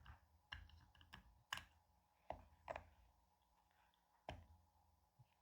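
A handful of faint, scattered clicks and light taps as a small wristwatch case and its screw-on caseback are handled on a table, the caseback being worked loose with a rubber ball.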